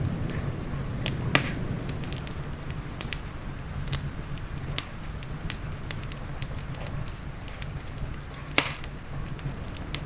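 Wood fire crackling in a fireplace: irregular sharp pops and snaps over a steady low rumble, with two louder pops, one about a second in and one near the end.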